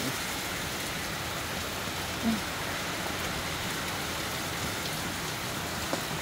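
Hard rain falling steadily, an even hiss of rain hitting the surfaces outside an open doorway. A single short, low sound cuts in briefly about two seconds in.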